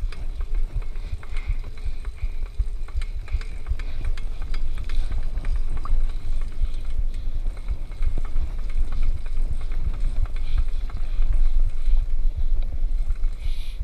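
Wind buffeting the microphone: a loud, gusting low rumble with no steady tone.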